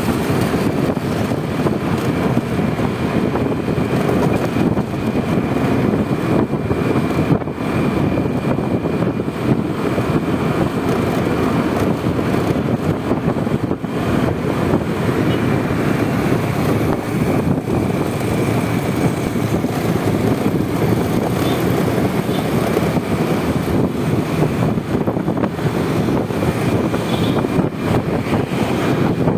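Steady riding noise from a Honda Vario 125 scooter under way: its single-cylinder engine running at an even pace, mixed with wind rushing over the microphone and surrounding traffic.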